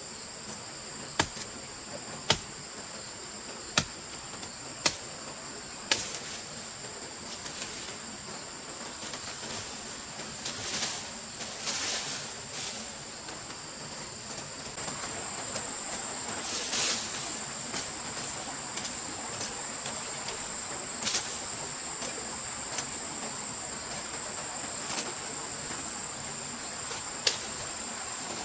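Crickets chirring steadily in a high, continuous tone. A series of sharp knocks falls about a second apart in the first several seconds, with a couple more later, and there are short noisy rustling passages in the middle.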